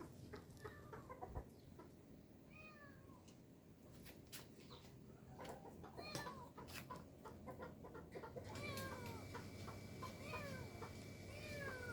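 Kittens meowing over and over, short high calls that fall in pitch, coming more often in the second half, with scattered sharp clicks and taps.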